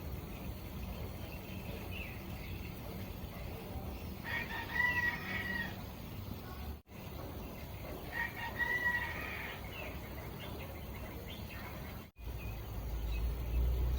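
A rooster crowing twice, each crow about a second and a half long, with a few faint bird chirps over a low steady rumble.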